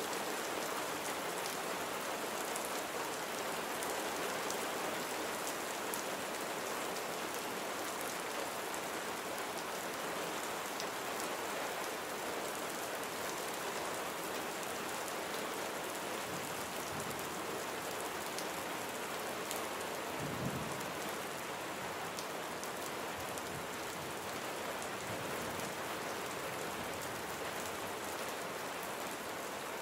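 Steady rain falling on surfaces, an even hiss full of small drop ticks, with a brief low rumble about two-thirds of the way in.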